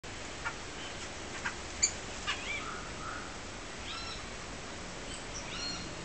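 Small birds calling: four short, sharp chip notes in the first two and a half seconds, then several short, squeaky, arched call notes.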